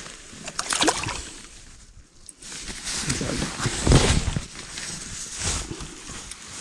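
Water sloshing and splashing around a kayak in irregular swells, loudest about a second in and again near the middle.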